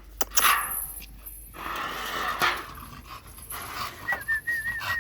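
American bully dog panting, then a thin, high, wavering whine starting near the end.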